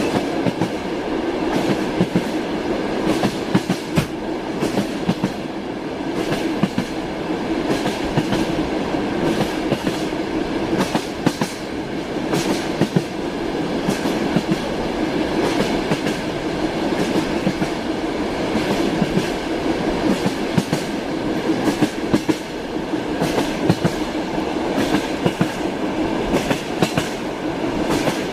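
Train wheels clattering over rail joints: a continuous rumble with many short, irregular clicks.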